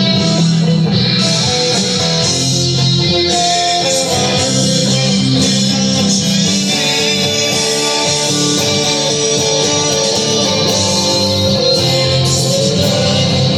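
Guitar music: an electric guitar played along with a rock song recording, held notes ringing over a steady band.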